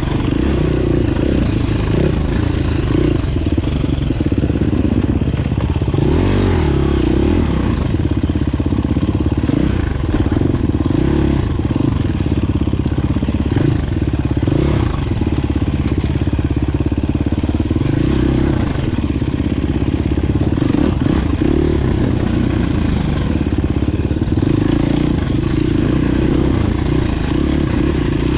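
Dirt bike engine running while riding, the note rising and falling with the throttle.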